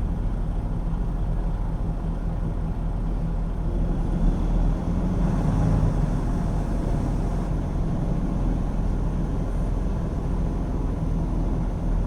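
Steady low engine and road noise inside a semi-truck's cab while driving, with a low hum that swells a little about halfway through.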